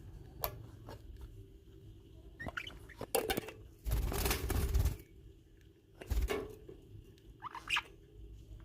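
A few short, high squeaky chirps from baby birds. A rustling noise lasts about a second near the middle, and a low thud follows a little later.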